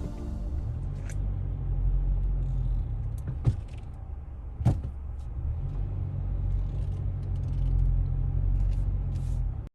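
A steady low rumble with a few sharp clicks about 1, 3.5 and 5 seconds in, ending in a sudden cut.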